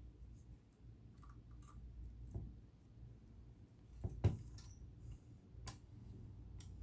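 Scattered light clicks and taps of small metal parts and tools being handled on a sewing machine, with one sharper knock about four seconds in.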